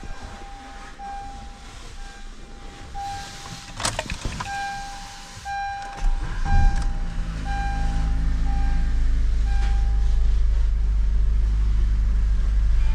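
A car's warning chime beeps repeatedly. About six seconds in, the 2017 Honda Accord's 2.4-litre four-cylinder engine starts and runs with a steady low hum, while the chime fades out.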